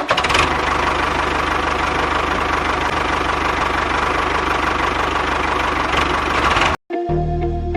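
A small engine running steadily with a fast, even firing rhythm, cut off abruptly near the end, where background music comes back.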